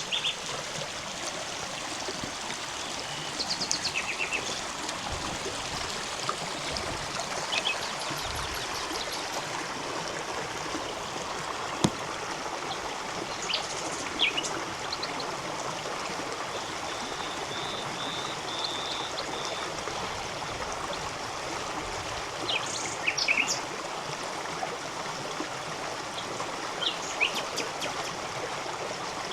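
A clear river running steadily over stones, a continuous rush of water, with small birds chirping now and then above it and a short trill a little past halfway.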